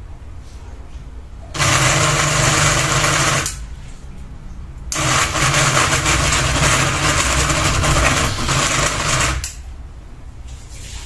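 Ceiling fan running with a single blade, unbalanced and wobbling: a steady motor hum that twice swells into a loud mechanical rattle, first for about two seconds, then for about four and a half seconds, before dropping back.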